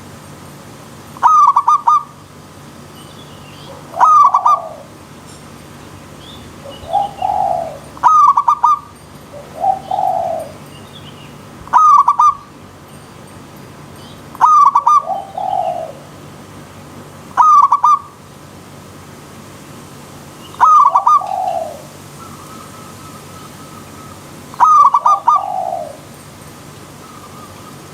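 Zebra dove (perkutut) repeating its cooing call eight times, about every three to four seconds. Each call is a quick stuttering burst that often drops into a lower falling note. Under it runs a steady stream-like hiss, with faint high chirps between the calls.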